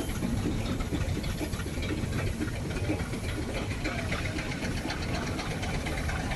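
Steam traction engine running, a fast even chuffing with a hiss of steam.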